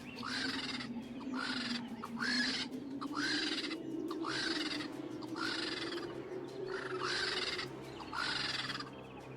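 A bird calling over and over with a harsh, raspy call, about one call a second, over a low steady drone.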